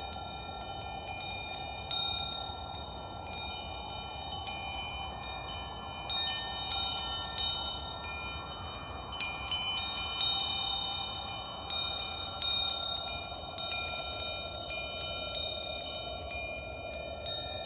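Wind chimes ringing at irregular intervals, several clear high tones overlapping and dying away, the loudest strikes about nine and twelve seconds in. Underneath runs a soft steady whoosh that slowly swells and fades.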